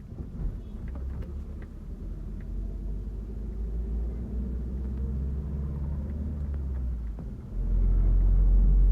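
Interior of a moving bus: steady deep engine and road rumble with a low engine hum, a few light rattles and clicks early on. About three-quarters of the way through the rumble suddenly grows louder, as the engine works harder.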